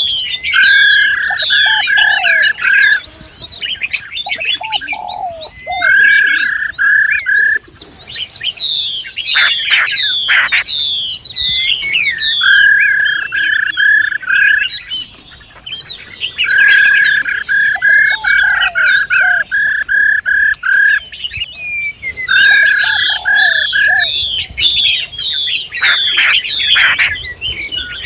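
Songbirds calling: dense high twittering chirps, broken every four to five seconds by a quick run of even, repeated notes.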